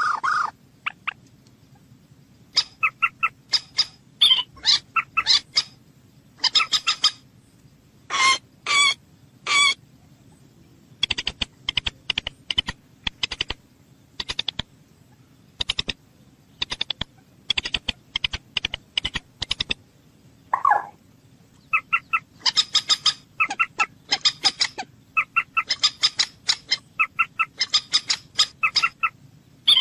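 Common moorhen calling: a run of short, sharp call notes given in quick clusters of several notes, with brief pauses between the clusters.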